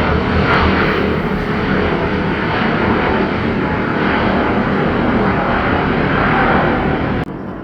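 Boeing 787-8 airliner landing, its jet engines making a loud, steady rushing roar that cuts off abruptly near the end.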